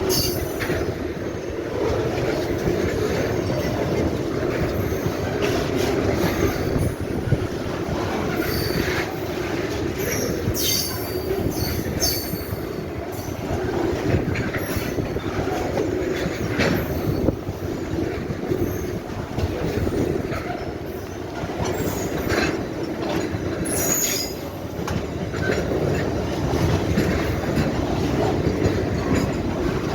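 Freight train of fuel tank cars rolling past: a steady rumble of wheels on rail with clicks at the rail joints and short high wheel squeals now and then.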